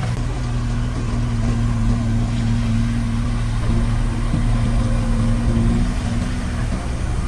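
Diesel engine of heavy earthmoving equipment running steadily: a constant low engine note under broad mechanical noise.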